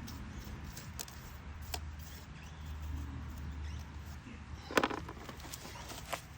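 A few light clicks and knocks from stone pieces being handled, the loudest about five seconds in, over a faint low hum.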